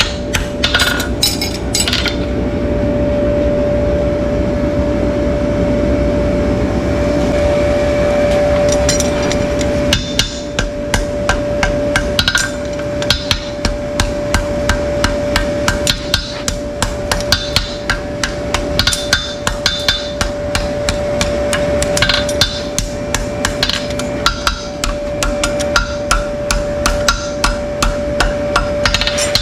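Farrier's hammer striking repeatedly, about two blows a second, over a steady hum. The blows stop for several seconds after the first couple of seconds, then resume.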